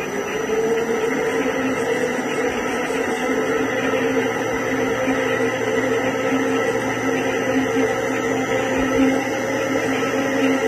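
200-litre double planetary mixer's explosion-proof electric motors and drives running steadily under inverter speed control: a continuous hum with a steady whine. The whine rises slightly in pitch in the first second as the speed is raised.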